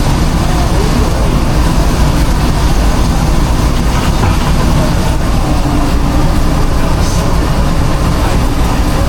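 Steady, loud mechanical drone with a deep rumble from a food truck's running equipment, unchanging throughout.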